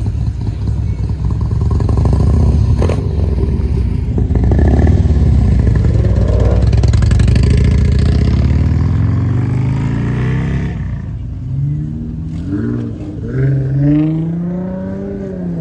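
A car engine revving hard with a deep, loud exhaust rumble that builds for about ten seconds. The sound then changes abruptly to quieter revs that rise and fall in pitch.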